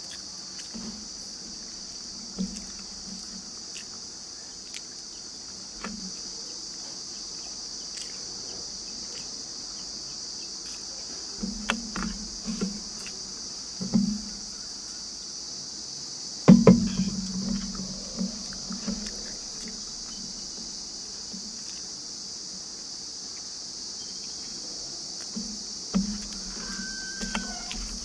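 Eating sounds: scattered soft chewing and mouth noises with the odd click of fingers on the plate as rice is eaten by hand, the loudest about halfway through. Under them a steady high insect chirring runs throughout.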